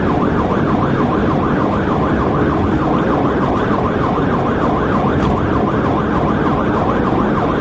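Police car siren on its fast yelp setting, sweeping up and down about four times a second, over the steady road and engine noise of a cruiser at highway speed in a pursuit.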